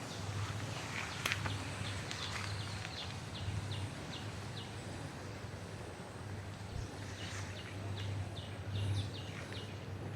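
Slow footsteps crunching on dry leaves, with two runs of short, repeated high chirps from a bird in between and a steady low hum underneath.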